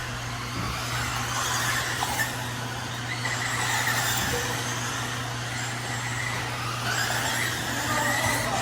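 Several Losi 22S 1/10-scale electric RC sprint cars racing on a dirt oval, their brushless motors whining up and down in pitch as they throttle on and off through the turns.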